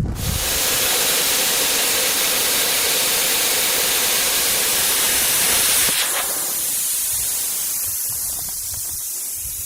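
Plasma cutter cutting slots in a metal plate: a loud, steady hiss of air and arc, which drops in level and thins about six seconds in. It is cutting cleanly with its air pressure freshly adjusted.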